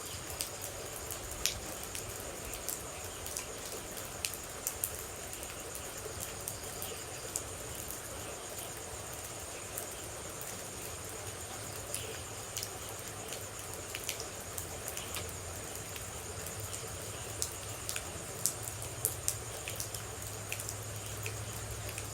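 Steady rain with scattered sharp drops ticking, over a steady high-pitched chirring of insects.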